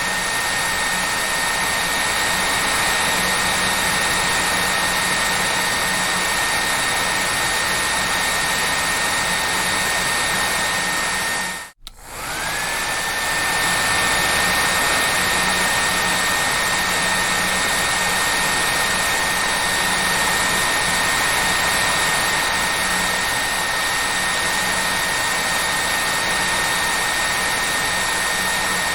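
Hair dryer running steadily, a rush of air with a high motor whine. About twelve seconds in it cuts out for a moment, then starts again with the whine rising back up to pitch.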